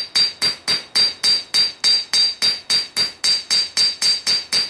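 Hand hammer striking a steel razor blank on an anvil in a steady rhythm, about four blows a second, each with a bright ring. The blows are drawing metal off the blade's corner to square it.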